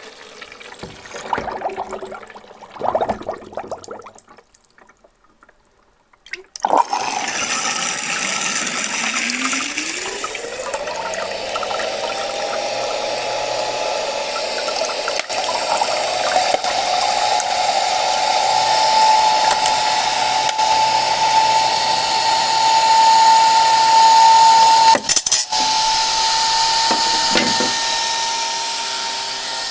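Splashing water for the first few seconds, then after a short lull a cordless vacuum cleaner's motor starts with a rising whine as it spins up. It settles into a steady run with a hiss, its pitch creeping slowly higher, and briefly cuts out near the end.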